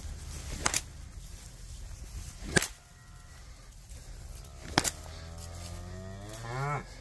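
Cattle lowing, ending in a long moo that rises in pitch near the end. Three sharp snaps, spread about two seconds apart, are the loudest sounds.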